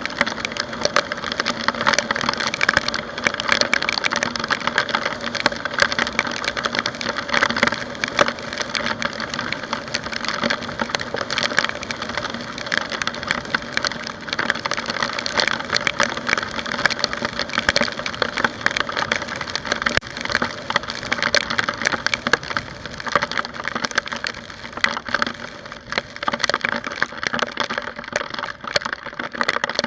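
Dense, continuous crackling of raindrops striking a motorbike-mounted camera's housing, over a steady hum from the motorbike and road.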